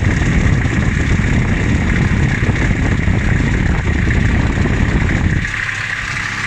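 Toyota 1PZ turbo-diesel inline five-cylinder engine running with a dense low rumble and a steady high whine alongside; about five and a half seconds in the low rumble drops away sharply.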